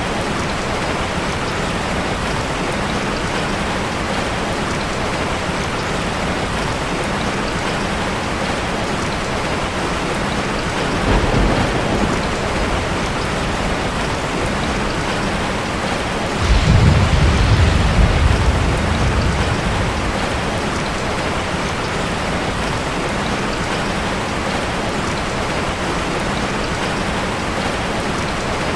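Heavy rain falling steadily, with two rolls of thunder: a short low rumble about a third of the way in, then a louder, longer rumble that breaks in suddenly past the middle and fades over a few seconds.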